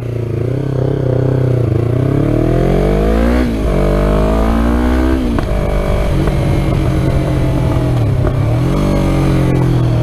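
Yamaha R3's 321 cc parallel-twin engine through a full Akrapovic exhaust system, revving up twice with the pitch climbing and then dropping sharply each time, then running at a steadier pitch with a brief dip near the end.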